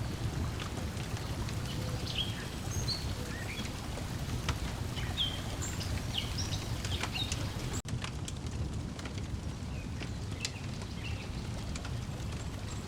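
Layered lakeside ambience: water lapping with a low steady rush, a wood fire crackling with scattered sharp pops, and small birds chirping, most busily in the first half. The whole bed drops out for an instant just before the middle.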